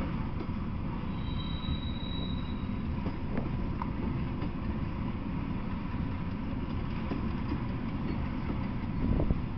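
Freight train of covered hopper cars rolling past: a steady low rumble of wheels on rail with scattered faint clicks. A faint, thin, high wheel squeal comes in about a second in and lasts a second or so.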